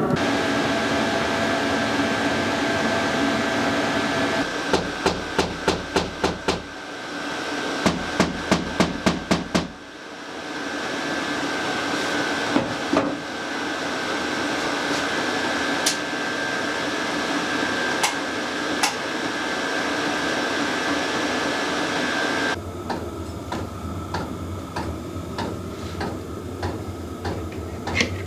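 Hammer blows in two quick runs of about four or five strikes a second, between stretches of a steady noise with a thin high tone. Near the end a soft, regular ticking takes over.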